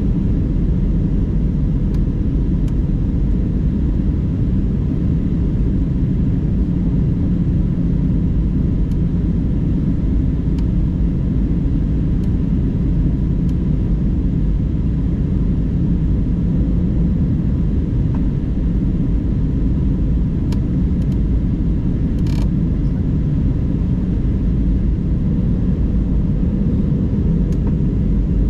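Steady low rumble of an airliner's passenger cabin during descent: engine and airflow noise, with a faint short click a little over twenty seconds in.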